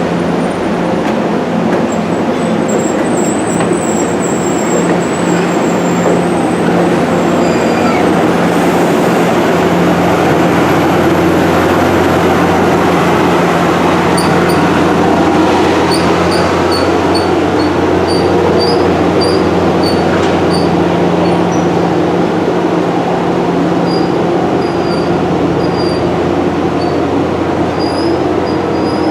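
Passenger train rolling slowly by behind a diesel locomotive, with a steady low drone throughout. From about halfway through, short high-pitched wheel squeals chirp again and again.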